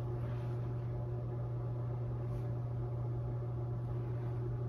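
A steady low hum with faint even hiss under it, unchanging throughout; no brush strokes are heard.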